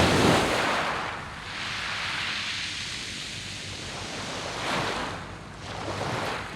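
Sea waves washing in on a round-pebble beach: a loud surge right at the start, then a steady wash, with smaller swells about five and six seconds in.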